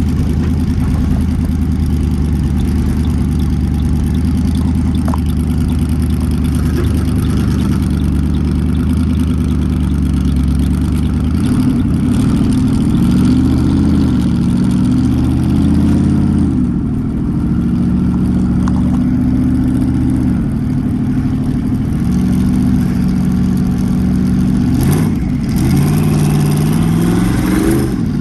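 Twin-turbocharged Ford 3-valve V8 car engine running at a steady speed, then from about 11 seconds in its revs rising and falling several times, as when being driven or revved.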